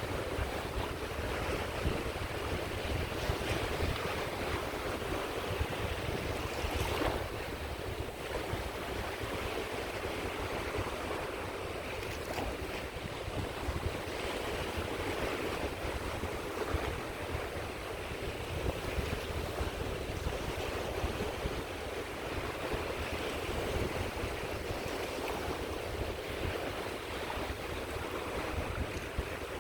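Caspian Sea waves washing onto the shore in a steady, continuous surf, with a low rumble of wind on the microphone.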